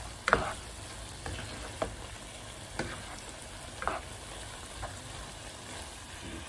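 Onion, green chilli, ginger, garlic and curry leaves sizzling in a pan as they are stirred and turned, with a steady frying hiss and a handful of sharp knocks of the stirring utensil against the pan.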